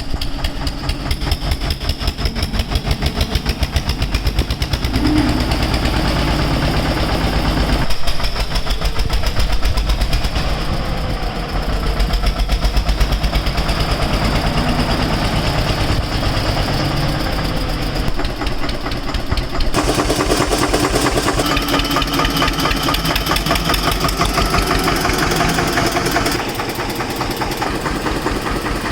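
2015 Eicher 242 tractor's two-cylinder air-cooled diesel engine running at idle with a rapid, steady beat. Its sound shifts slightly about 8 and 20 seconds in.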